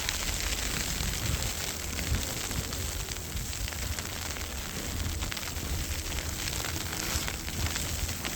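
Wind rumbling on the microphone under a steady crackling hiss.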